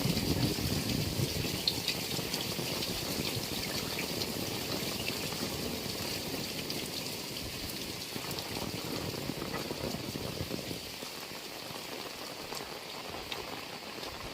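Heavy rain falling steadily, with scattered sharp drop hits over an even hiss. A deeper, uneven rumble under the rain eases off about eleven seconds in.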